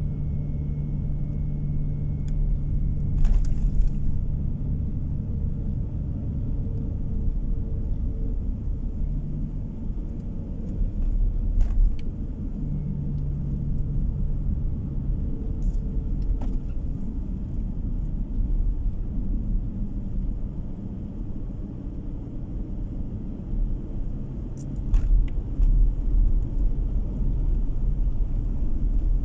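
A car driving on the road, heard from inside the cabin: a steady low rumble of tyres and engine, with a few short knocks from the road.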